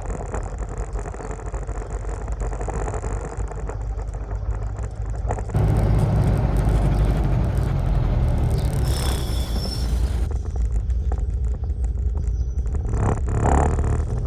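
Car driving, with a steady low rumble of engine and road noise. It gets louder about a third of the way in, with a hiss added over it that stops again about two-thirds through.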